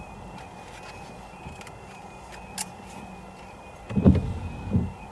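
Half-barrier level crossing warning alarm sounding, a steady high tone with faint regular ticks, while two loud low thumps come about four seconds in and again less than a second later.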